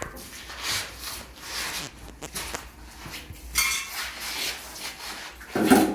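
Plastering trowel scraping and spreading cement mortar in a series of irregular strokes, with a heavier knock near the end.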